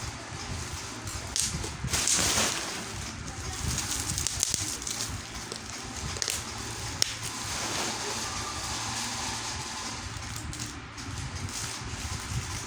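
Handling noise from unpacking: rustling with scattered small clicks and one sharp click about halfway through.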